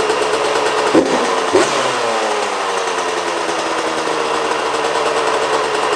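Small motorcycle engine running. About a second in it is blipped twice, and then the revs fall back to a steady idle.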